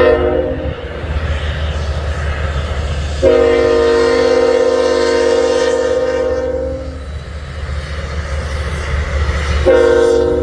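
Union Pacific diesel locomotive's multi-chime air horn blowing the end of one blast, then a long blast, then a short one starting near the end, in the long-long-short pattern of a grade-crossing signal. Under the horn runs the steady low rumble of the locomotives as the loaded coal train approaches.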